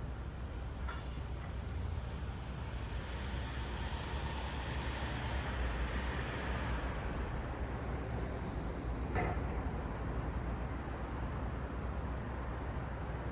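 City road traffic at night: a steady low rumble of tyres and engines, swelling as a vehicle passes through the middle, with a short knock about nine seconds in.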